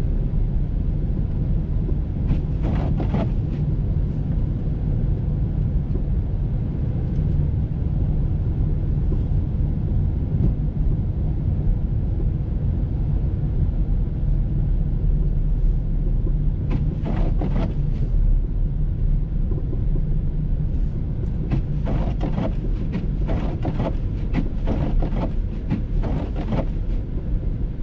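Steady low rumble of a moving vehicle, with scattered clusters of brief clicks or knocks about three seconds in and again through the second half.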